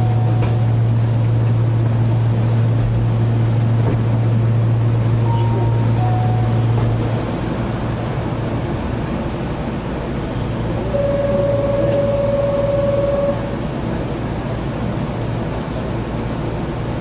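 Keihan electric train standing at a platform: a steady low hum from its on-board equipment cuts off about seven seconds in, leaving a lower rumble. Short beeps sound early and around the middle, and a buzzer tone lasts about two seconds partway through.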